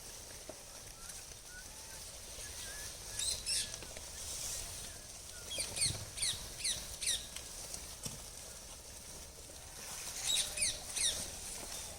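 Bird chirping: quick, high calls that fall in pitch, in three bursts: a pair about three seconds in, a rapid run of about six around six to seven seconds, and another run of about five near the end, over a quiet outdoor background.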